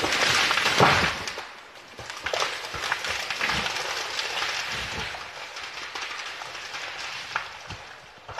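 A felled tree coming down: wood cracking and a loud crash about a second in, then branches rustling and settling as the sound fades.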